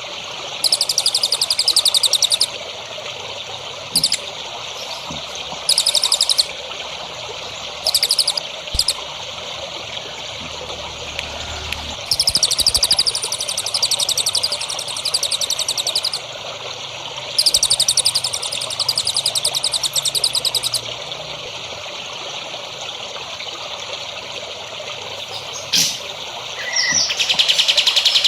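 A songbird singing repeated bursts of a very fast, high-pitched trill, each lasting one to a few seconds, over a steady trickle of running water. It is birdsong recorded as a tutor song for cage birds to learn from.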